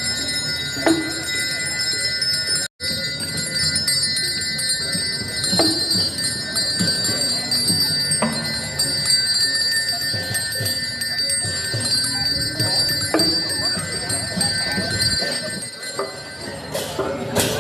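A small brass hand bell rung continuously, its ringing tones held steady, typical of a Balinese priest's genta during temple worship; low voices murmur underneath. The sound cuts out for a moment about three seconds in.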